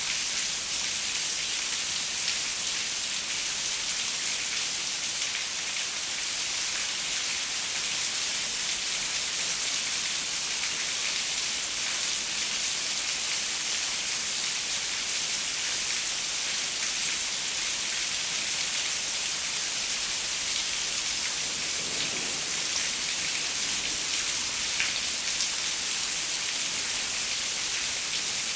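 Steady rain pattering on a window, a dense even hiss with scattered drop ticks.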